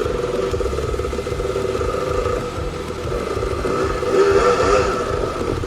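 Enduro motorcycle engine running and revving, growing louder about four seconds in.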